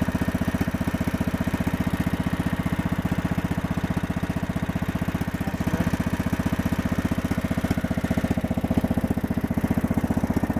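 Kohler engine of a Yard-King riding mower running steadily with an even, rapid chug and no change in speed.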